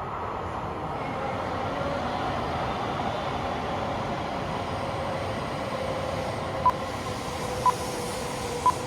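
Coupled Tohoku Shinkansen Hayabusa and Akita Shinkansen Komachi train running, a steady rumble of wheels and air with a faint motor whine. Three short beeps come about a second apart near the end.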